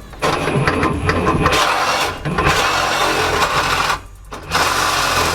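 Power saw cutting through the car's exhaust pipe, running steadily, stopping briefly about four seconds in and then starting again.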